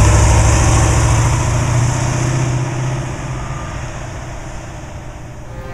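Small-block Chevy V8 of a hot rod driving past and away, its engine note loud at first and fading steadily.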